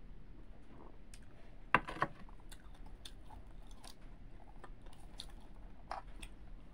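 Mouth sounds of a person eating rice and fish by hand: chewing with scattered wet clicks. Two sharp knocks stand out about two seconds in, with another near the end.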